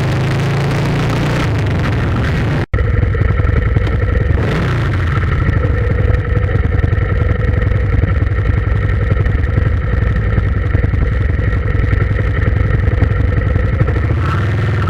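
An engine running steadily, with a brief sharp dropout about three seconds in before it carries on.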